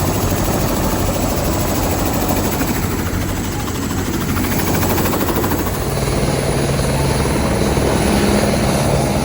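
Helicopter running steadily, a loud dense noise of engine and rotor with a fast regular beat.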